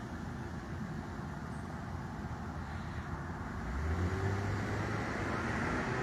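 Road traffic noise, a steady rumble, with a vehicle's low engine hum growing louder about four seconds in as it passes.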